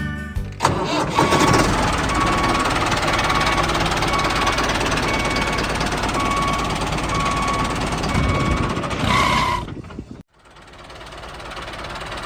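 A steady, dense mechanical running noise, like a small motor or engine, with a short beep repeating about once a second. It cuts off abruptly about ten seconds in, then starts building back up.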